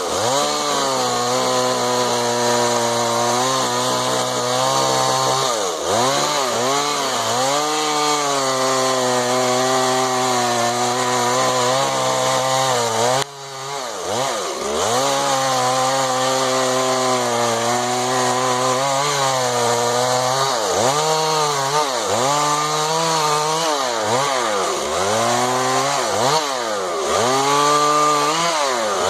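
Chainsaw running at high speed and cutting wood, its engine pitch sagging and climbing back again and again as the chain bites and clears. About 13 seconds in the engine briefly drops off and then recovers, and the dips come quicker near the end.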